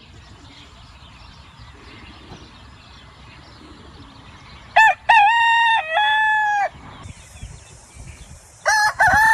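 Rooster crowing: a loud multi-part crow about five seconds in, after a few seconds of faint background. A second crow begins near the end and is cut off abruptly.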